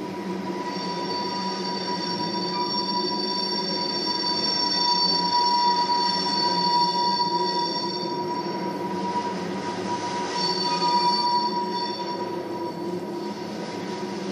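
Railroad tank cars rolling past with a steady low rumble, their steel wheels squealing in long, steady high-pitched tones. The squeal breaks off briefly about nine seconds in, then starts again.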